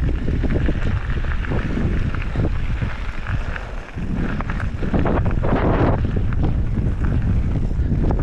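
Wind buffeting the microphone over the rumble and rattle of a GT mountain bike rolling fast over a dirt trail, with many small knocks from the bumps. The noise dips briefly about four seconds in.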